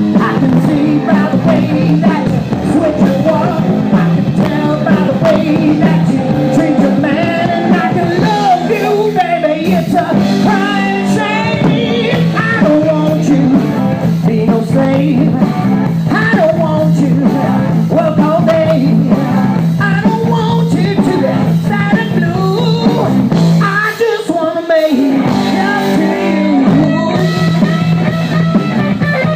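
Live rock band playing a blues-rock song with electric guitar, bass, drums and singing. Near the end the low end briefly drops out before the full band comes back in.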